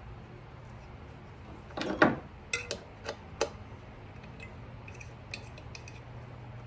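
Small metal parts and hand tools clinking and clicking, with a louder knock about two seconds in and a few sharp clicks just after it.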